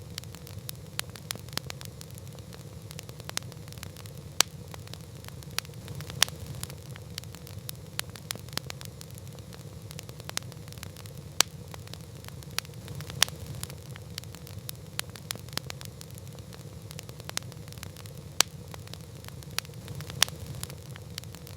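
Campfire burning: a steady low rush of flame under irregular crackles and pops, several a second, a few of them sharp and loud.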